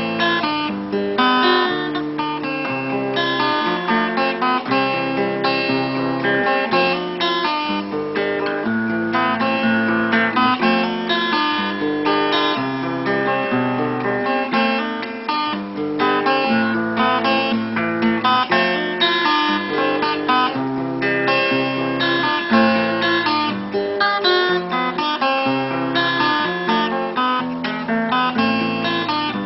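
Solo acoustic guitar playing an instrumental piece, fingerpicked melody over a moving bass line with some strummed chords.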